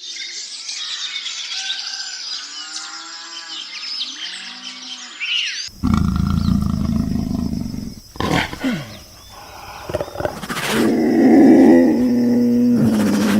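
Different animal calls cut one after another. Many high chirping calls fill the first five seconds or so. A deep rumbling call follows, and near the end comes a long, steady low call, the loudest sound here.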